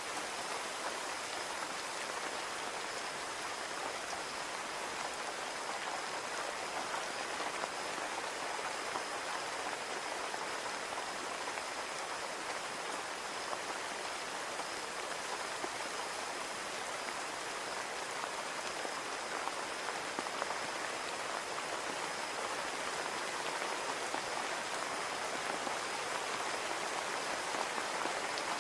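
Steady rain falling on a window, an even hiss filled with the patter of many small drops.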